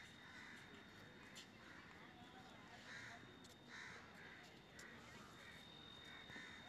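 Faint bird calls, short and repeated about twice a second, over near silence, with a faint steady high whine.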